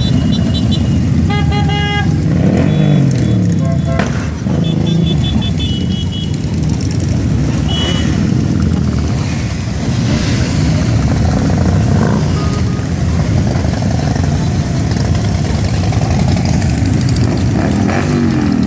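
Several motorcycle engines running and revving, with vehicle horns sounding in short blasts several times in the first few seconds.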